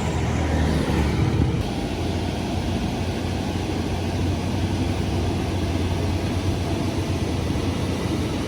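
Road vehicle engines: a passing vehicle fades away in the first second or two, then a steady low engine rumble with road noise carries on.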